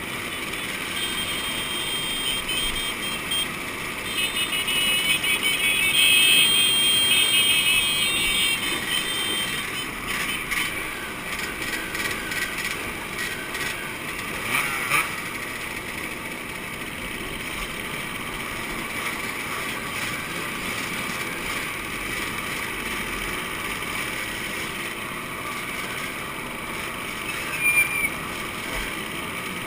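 Two-stroke motorcycle engines running, with a high-pitched revving that is loudest from about four to nine seconds in. There are two short, sharp sounds, one mid-way and one near the end.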